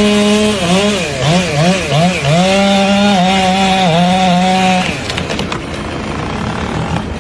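A motor running at a steady pitch, which dips and recovers several times as if under load, then dies away about five seconds in.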